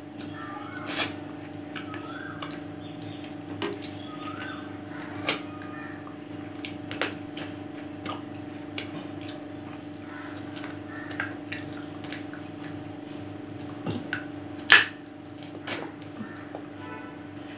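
A person eating chicken biryani by hand, chewing with a series of short wet mouth clicks and lip smacks, the loudest about a second in and near the end, over a steady low hum.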